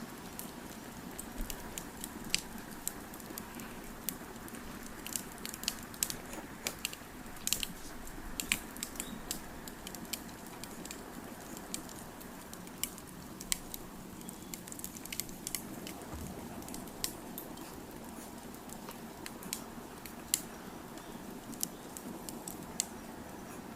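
Wood fire crackling, with irregular sharp pops and snaps over a steady low hiss.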